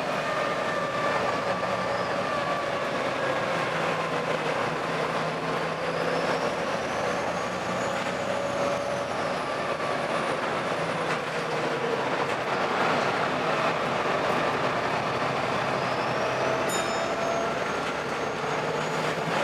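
Volvo B7TL double-decker bus's 7-litre six-cylinder diesel running under way, making the odd engine noise: a steady drone with a high whine that rises and falls twice.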